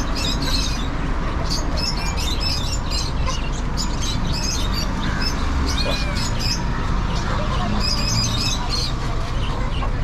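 Many small cage birds chirping and twittering in short high calls scattered throughout, over a steady low rumble.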